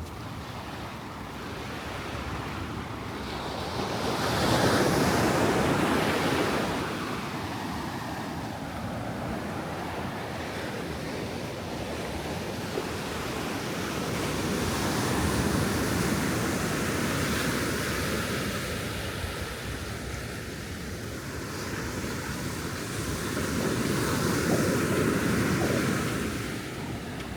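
Ocean waves breaking on a sandy beach: an even rushing surf that swells three times, roughly ten seconds apart.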